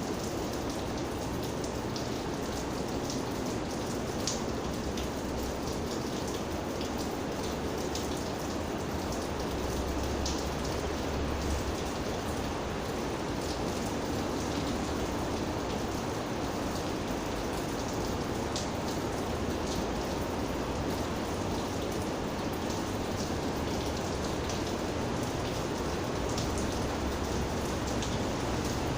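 Steady rain falling, with many separate drops ticking on a surface. A brief low rumble about ten seconds in.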